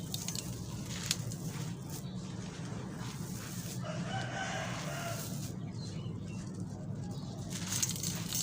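A few crisp crunches of dry black concrete being crumbled, near the start and again near the end, over a steady low hum. A rooster crows once in the background about four seconds in.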